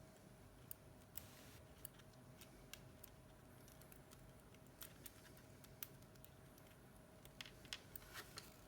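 Faint, irregular small clicks and taps from handling repair tools and iPhone 7 parts, a few more near the end, over quiet room tone with a faint steady hum.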